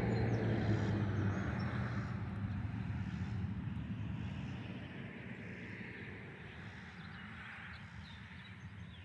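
Engine of a passing motor vehicle fading into the distance: a low hum that dies away over the first couple of seconds, and a fainter rushing sound that slowly eases off.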